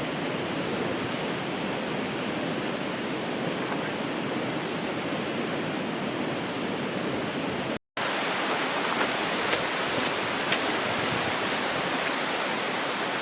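A river rushing steadily, an even wash of water noise. It drops out for an instant about two-thirds of the way through, then carries on with a few faint ticks over it.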